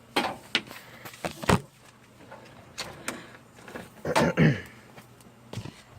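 Handling noise from a computer power cable being moved and plugged in: a series of short clicks and knocks, with a louder scrape or rattle about four seconds in.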